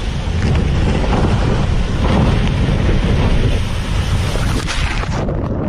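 Strong storm wind buffeting the microphone: a loud, dense rumbling rush with a hiss over it, the hiss dropping away about five seconds in.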